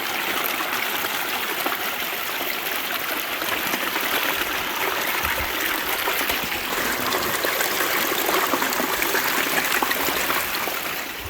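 Water rushing and splashing steadily, with a fine crackle.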